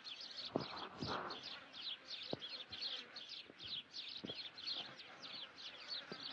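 High chirping calls repeating evenly, about two a second, with a few short knocks and a brief rustle about a second in.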